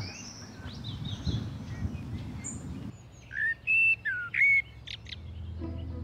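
Songbird singing: faint chirps over a low outdoor rumble, then about three seconds in a short phrase of four or five loud, clear whistled notes. A low steady tone comes in near the end.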